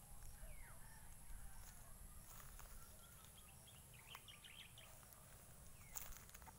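Faint bird calls: one falling chirp near the start, then a quick run of short high chirps a few seconds in, over low steady background rumble.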